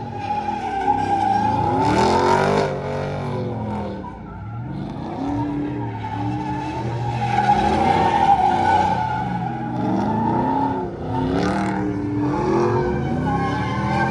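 Truck engines revving repeatedly through loud exhausts, the pitch rising and falling several times, over a steady high squeal.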